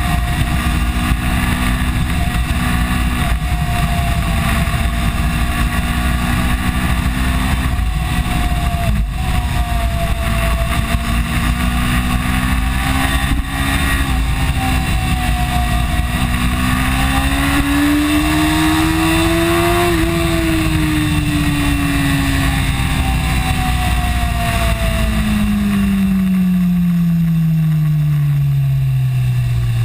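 BMW S1000RR's inline-four engine running hard at speed under heavy wind rush. Its pitch rises and dips with the throttle, then falls steadily over the last few seconds as the bike slows down.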